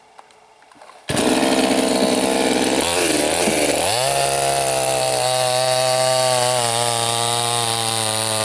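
Two-stroke petrol chainsaw (a Soyuz PTS-99520T) making a felling cut: it comes in suddenly about a second in, its engine note dips under load and then climbs to a steady high pitch as it cuts.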